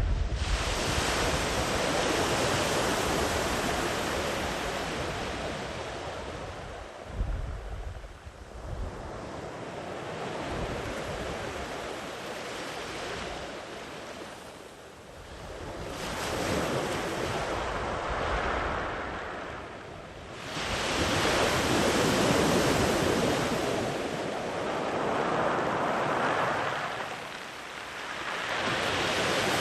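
Sea waves breaking and washing far up the beach, the wash swelling and fading in long surges every few seconds. Wind rumbles on the microphone at times, most plainly about a quarter of the way in.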